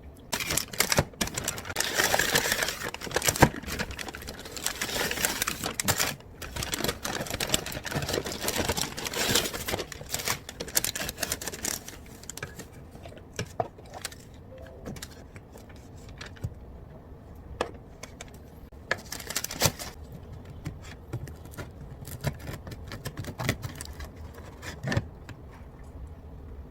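Busy clicking, clattering and rustling of objects being handled, dense for about the first half, then thinning to scattered sharp clicks.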